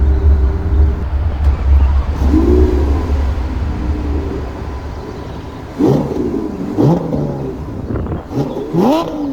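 Lamborghini Aventador SVJ's 6.5-litre V12 idling with a strong low drone, given a small rev about two seconds in, then blipped several times in quick succession in the second half, each rev rising sharply in pitch and dropping back.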